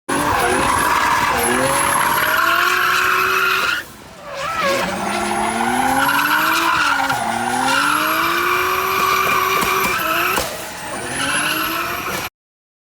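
Drift car engine revving hard, its pitch rising and falling, over a steady screech of tyres sliding. The sound dips briefly about four seconds in and again near the end, then cuts off suddenly.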